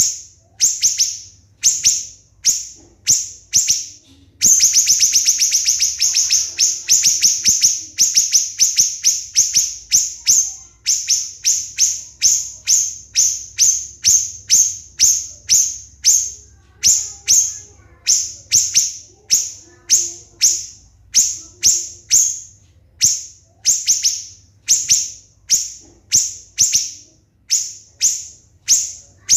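Siri-siri bird singing in rapid, sharp, high-pitched 'shots': short notes repeated about twice a second, running into a fast rattling trill about four seconds in, then back to the steady string of shots.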